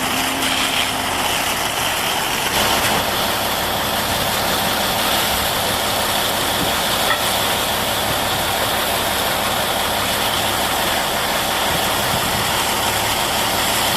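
Steady hiss of a water jet spraying, with an engine idling underneath.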